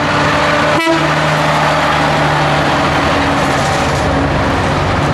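Scania truck engine running steadily at speed, with road noise.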